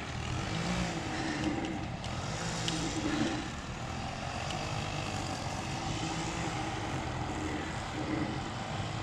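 A steady low engine drone with a slowly wavering pitch, and a few faint clicks.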